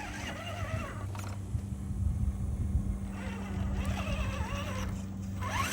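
RC scale crawler's brushed electric motor and gear drivetrain whining as it drives through dirt and mud. The pitch wavers with the throttle, drops away for about two seconds, then comes back and rises quickly near the end.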